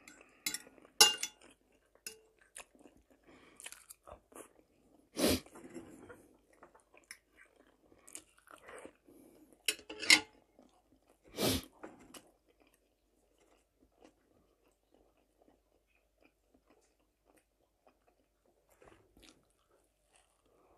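Close-up chewing and crunching of omelette and bread, with several louder sharp clicks and smacks in the first twelve seconds; after that the chewing becomes faint.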